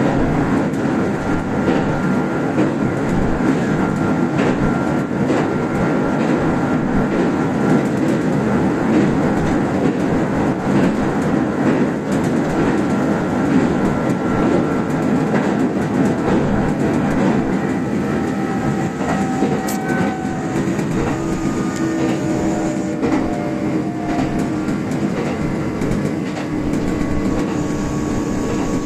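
Kintetsu express electric train running on standard-gauge track, heard inside the lead car: a steady rumble of wheels on rail with clicking over rail joints. A few faint, short squealing tones come in past the middle.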